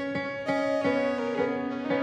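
Piano playing a slow, gentle instrumental, single notes struck every third to half second over sustained chords.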